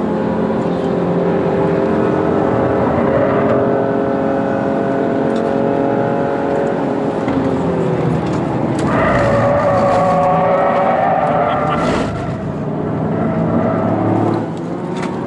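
Toyota GR Yaris's turbocharged three-cylinder engine, heard from inside the cabin at speed on track. Its pitch holds steady, falls as it eases off about seven seconds in, then rises again under hard acceleration, with one brief sharp click about twelve seconds in.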